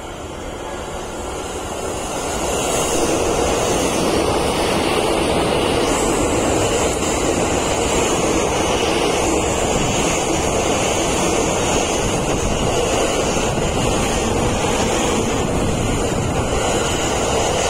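Stainless-steel electric commuter train passing the platform at speed: a steady rush of wheels on rails and air that builds over the first few seconds, with a faint high whine above it.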